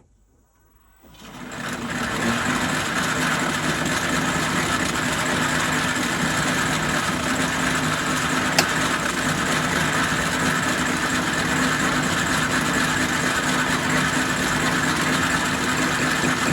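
A 1944 Logan 210 lathe's motor and flat-belt drive start up about a second in, come up to speed over a second and then run steadily. There is a single sharp click partway through.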